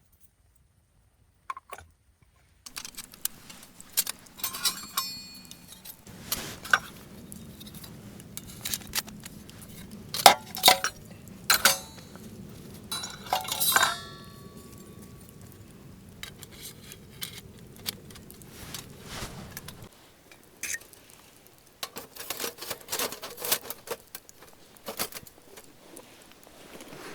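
Metal camp gear clinking and knocking together in handling, with several sharp ringing metallic knocks. A low steady noise runs underneath and stops about two-thirds of the way through.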